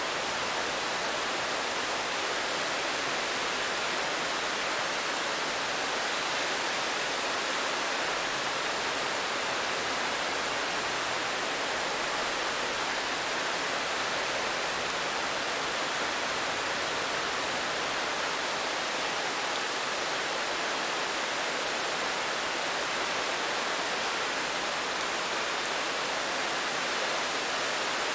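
Steady rain: an even, unchanging hiss with no separate drops standing out.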